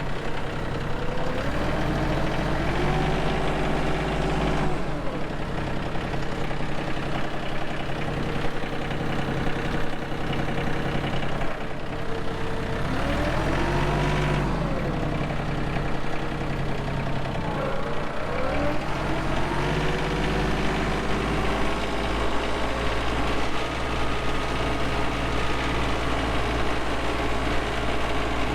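Tractor engine running while it warms up in freezing weather. Its revs rise and settle back several times: a couple of seconds in, again around the middle, and once more a few seconds later, with steady running between.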